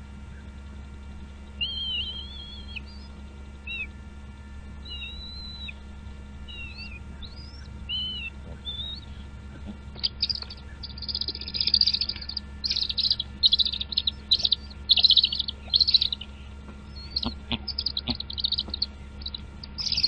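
Birds chirping: scattered thin, whistled chirps and short glides, then from about halfway a run of louder, rapid chirping bursts repeated many times, over a steady low hum.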